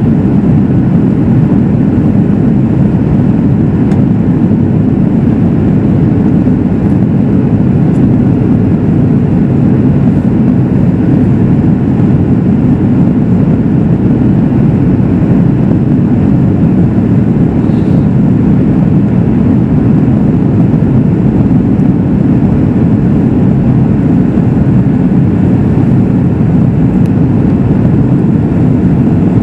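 Steady, loud rumble of a Boeing 737 MAX 8 in flight as heard inside the cabin: airflow and engine noise with no change in pitch or level.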